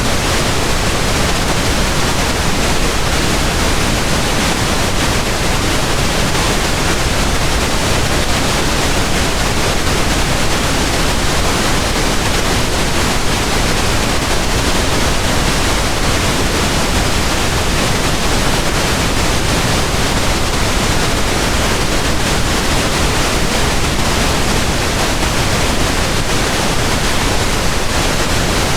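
Steady pink noise, an even hiss spread evenly across all frequencies from low to high, unchanging throughout.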